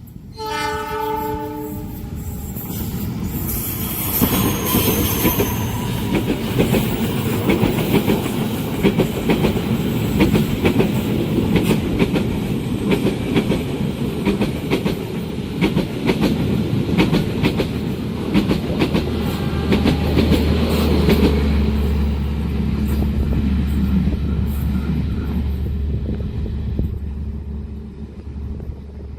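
Passenger train sounding a brief multi-tone horn, then passing at speed with wheels clacking rhythmically over the rail joints for about twenty seconds, a steady low hum joining in the later part before the noise fades near the end.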